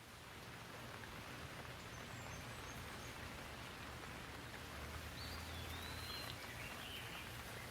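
Steady rain, growing slightly louder, with a bird giving a curved whistled call about five seconds in and a few short chirps near the end.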